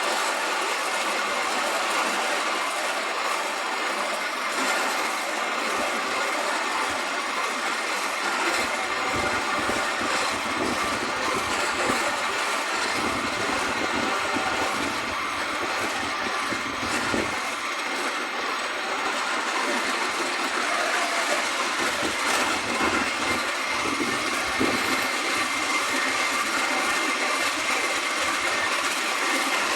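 Miniature railway train running steadily along its track, heard from on board: a continuous rolling and running noise with occasional faint clicks.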